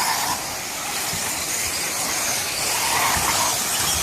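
Electric 4WD off-road RC buggies racing round a wet track: a steady hiss of motors, drivetrains and tyres, with a few faint low knocks.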